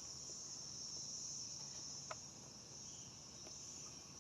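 Steady high-pitched insect chorus, like crickets, with a single faint click about two seconds in.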